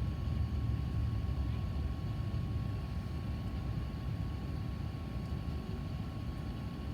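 Steady low rumble inside an Airbus A380-800's cabin on the ground, with a thin, constant high tone running over it.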